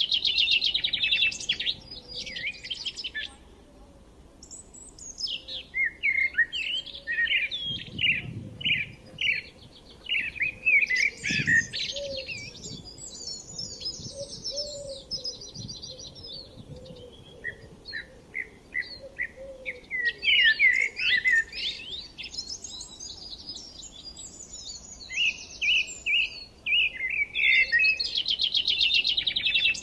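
Songbirds singing in overlapping phrases of quick repeated chirps and rapid trills, with brief lulls about 4 and 17 seconds in.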